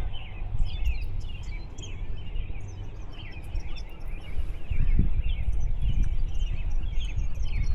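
Many small birds chirping and twittering on and off, over a loud, uneven low rumble of outdoor noise.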